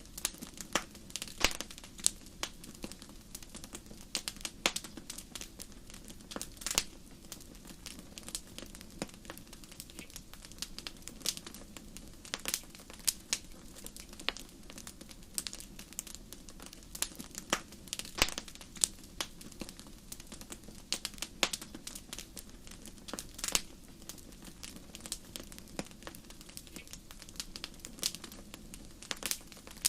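Wood fire crackling: irregular sharp pops and snaps, a few louder ones, over a low steady hiss of burning.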